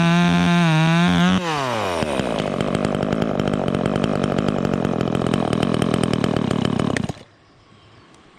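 Two-stroke chainsaw running at full throttle, then the throttle is released about a second and a half in and it drops to a rapid ticking idle. It cuts off suddenly about seven seconds in as the engine is shut off.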